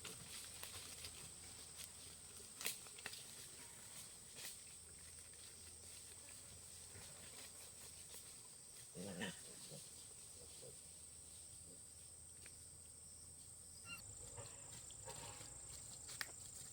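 Quiet farmyard with a steady high-pitched whine, a few light clicks, and one short farm-animal grunt or call about nine seconds in.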